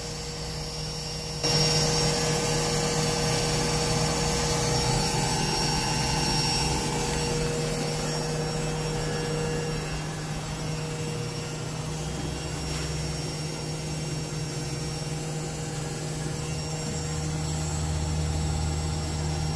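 Belt-drive washing machine motor running through a spin cycle: a steady mechanical hum with a high whine. It is quieter for the first second or so, then holds steady.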